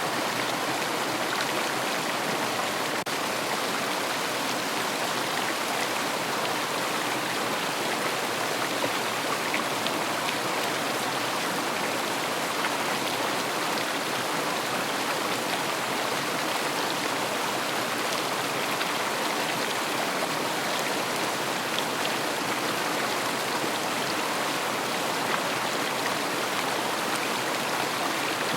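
River water rushing and burbling steadily over its bed, an even hiss with no breaks.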